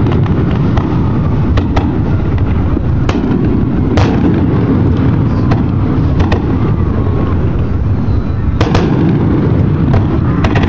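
Aerial fireworks display: a loud, constant low rumble of bursting shells with sharp cracks scattered through it, about a dozen.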